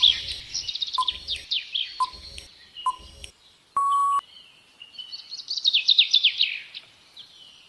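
Birdsong, quick repeated chirps, under a countdown timer ticking about once a second. The ticks stop after three seconds and a short steady beep follows about four seconds in, marking the end of the answer time. The chirps return in a dense run near the end.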